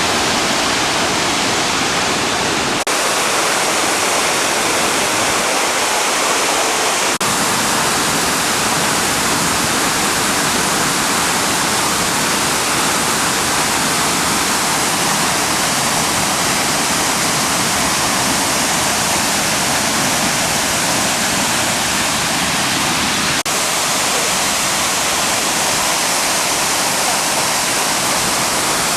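Hida Choshi Waterfall's falling water rushing in a loud, steady, even roar of white noise.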